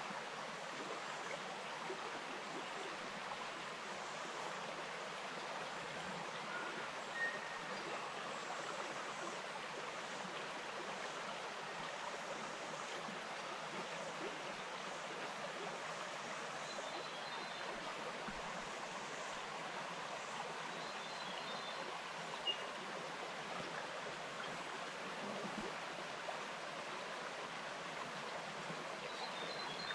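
Bush stream flowing: a steady, even rush of running water, with a few faint short high chirps over it.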